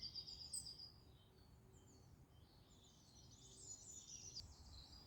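Faint songbird song in woodland: a quick trill of repeated high notes in the first second, and another high phrase about four seconds in, over a low steady background noise.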